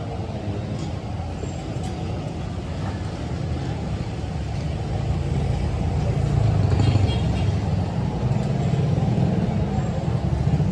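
A steady low engine or motor rumble, growing louder from about six seconds in, with a few faint clicks over it.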